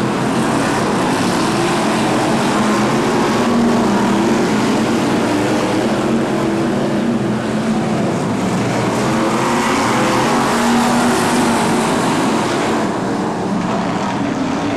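A pack of BriSCA F1 stock cars racing, their V8 engines running hard together. The engine pitch rises and falls as the drivers rev and lift around the oval.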